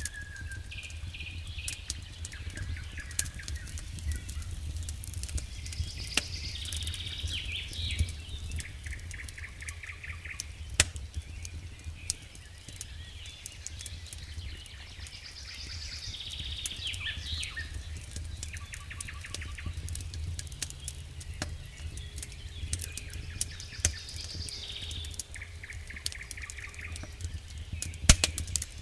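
Campfire crackling, with sharp pops scattered through, over a steady low rumble, while songbirds sing repeated trilled phrases.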